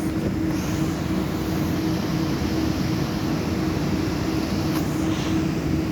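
Electric passenger train starting to pull out of the station: a steady rumble and hiss with a level hum from its drive.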